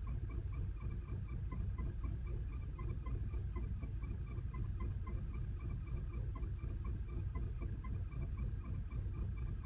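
2010 Volkswagen CC engine idling roughly and unevenly, with a light, regular ticking on top, about three to four ticks a second. The owner reports it shakes at low revs with the check engine light flashing, a flashing light being the usual sign of an active misfire.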